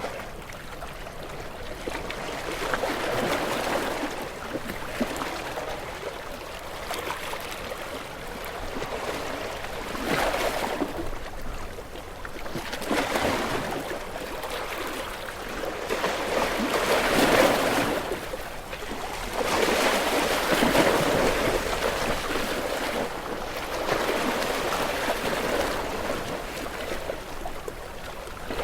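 Ocean waves breaking and washing in. The hiss swells and ebbs every few seconds, with the loudest wave a little past the middle.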